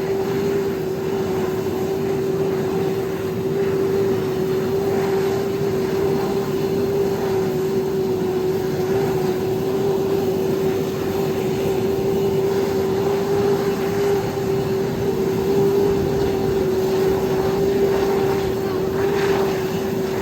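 F-15E Strike Eagle's jet engines running steadily on the ground, a constant loud rush with an unchanging whine.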